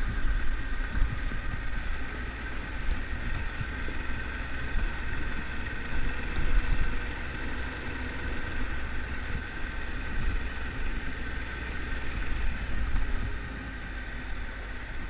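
Triumph Tiger 1200's three-cylinder engine running steadily at low revs, with a constant low rumble.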